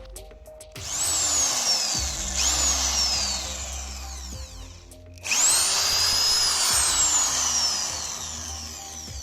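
INGCO ID11008 1100 W corded impact drill run three times, its motor whine climbing quickly as it speeds up and then sliding down as it slows. Two short runs come about a second in and again at about two and a half seconds, and a longer one starts about five seconds in.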